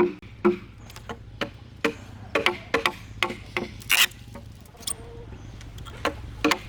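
Blows of a tool striking timber. There are two ringing knocks about half a second apart at the start, then lighter, irregular knocks and taps.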